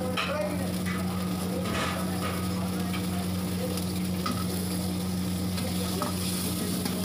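Hot oil sizzling in a carbon-steel wok over a steady low hum, with a few short metallic clinks. Chopped onion and green capsicum go into the oil with a steel ladle partway through and are stirred, and the sizzle grows louder near the end.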